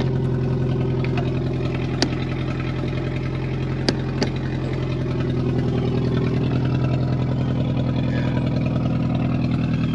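Toyota pickup truck engine idling steadily, with a few sharp clicks about two and four seconds in.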